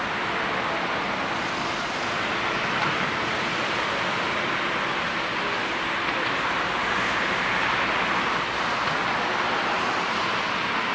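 Jet noise from an Airbus A340-300's four CFM56 turbofan engines at takeoff thrust: a steady rushing noise that swells a little and eases again.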